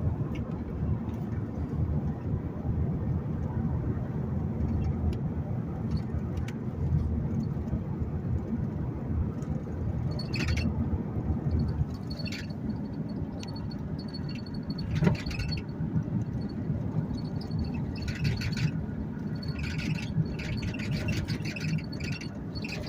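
A vehicle driving along a road: a steady low rumble of engine and tyres. From about halfway through, short high chirps and a few sharp clicks come and go over the rumble, more often near the end.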